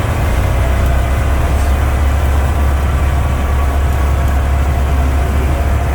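Cessna's piston engine and propeller running steadily at low power, a loud, even low drone.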